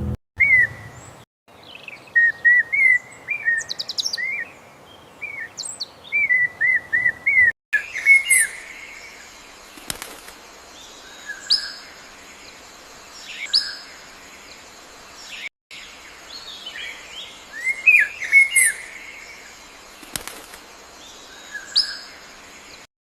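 Small birds chirping: quick runs of short, bouncing chirps at first, then sharp high calls that sweep steeply downward, repeated about every two seconds amid softer twittering. The sound breaks off to silence for an instant several times.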